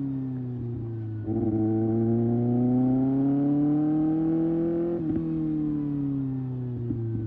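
2024 Kawasaki ZX-6R's 636 cc inline-four engine under way: the revs sag, then about a second in the throttle opens and the engine pulls louder with its pitch rising steadily for about four seconds. Near the end the throttle closes and the revs fall away.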